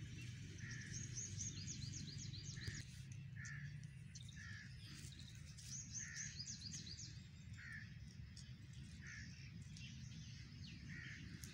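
Birds calling: one repeats a short call every second or two, while another gives two runs of rapid, high, sweeping notes, over a steady low rumble.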